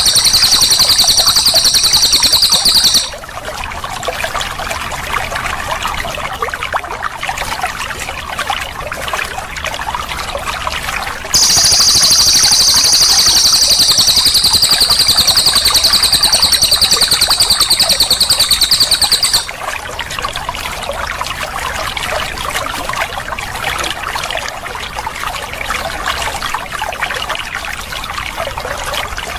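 Cililin songbird singing a very fast, high rolling trill in two long runs, the first ending about three seconds in and the second lasting about eight seconds from about a third of the way through. Between and beneath them, water trickles and flows steadily.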